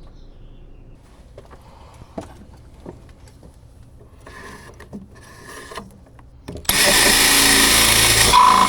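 Scattered light clicks and knocks of tools and material being handled, then about two-thirds of the way through a power tool starts and runs loudly and steadily.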